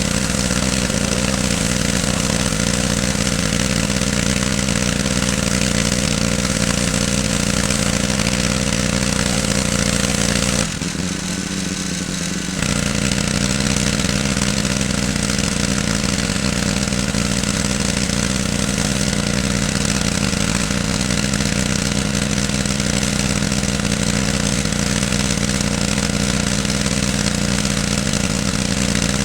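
Pressure washer's small engine running steadily under the hiss of the water spray. The engine tone drops out for about two seconds near the middle.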